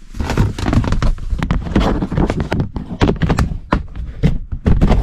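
Handling and rummaging: a rapid, irregular run of knocks, thumps and rustles as items are moved about and set down.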